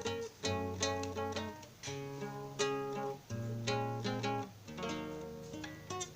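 Acoustic guitar (violão) built from recycled materials, played by hand: plucked notes and strummed chords over bass notes, several strokes a second, each ringing and fading.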